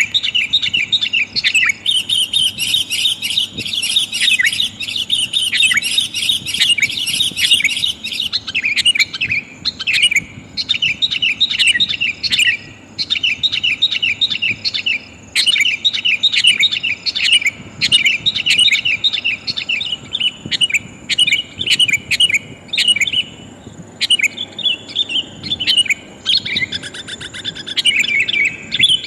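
Female sooty-headed bulbul calling: rapid, busy runs of bright chirps, broken by short pauses, as used to lure wild males.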